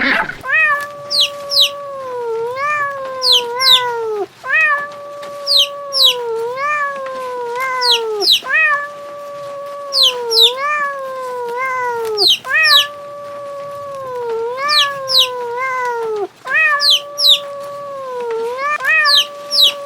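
Cat meowing in long drawn-out calls that dip in pitch in short hooks, with quick high chirps over them, the same pattern repeating about every four seconds as if looped.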